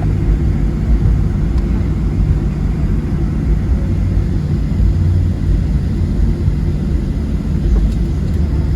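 Steady low rumble inside the cabin of a Boeing 737-700 in flight: its CFM56-7B turbofan engines and the airflow around the fuselage.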